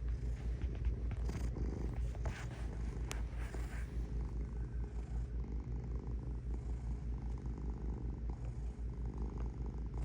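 Domestic cat purring steadily, a fast low pulsing close to the microphone, with a single sharp click about three seconds in.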